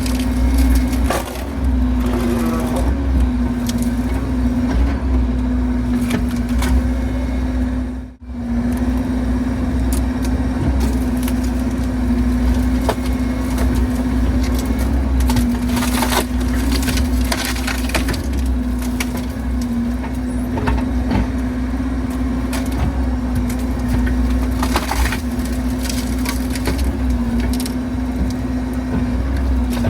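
Bobcat E60 excavator's diesel engine running steadily under hydraulic load, with intermittent cracks and splintering of wood as the machine breaks up the tree and stump. The sound drops out briefly about eight seconds in.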